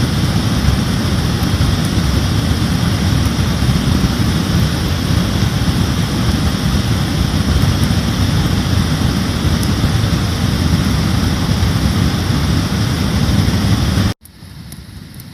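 Loud, steady rumbling noise, heaviest in the bass, typical of wind buffeting the microphone outdoors. Near the end it cuts off abruptly to a much quieter hiss with a few faint clicks.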